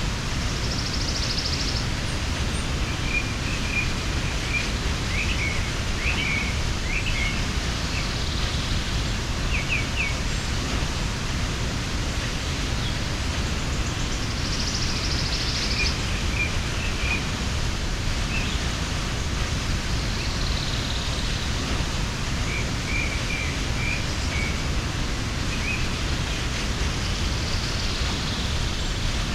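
Waterfall's steady rush of falling water, with birds calling over it: scattered short chirps and a higher trill that comes back every six or seven seconds.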